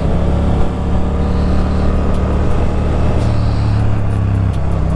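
Motorcycle engine running steadily under way, mixed with road and wind noise. Its note shifts slightly about four and a half seconds in.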